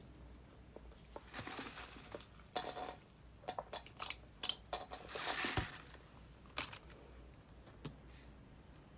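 Close-up eating noises from a fast-food meal: several short bursts of crinkling and crunching with scattered sharp clicks, the longest about five seconds in.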